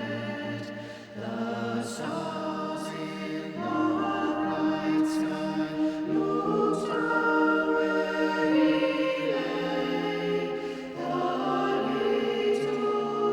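Ambient instrumental arrangement of a Christmas carol: layered violin and viola over electronic choir-like pads, moving through slow, sustained chords.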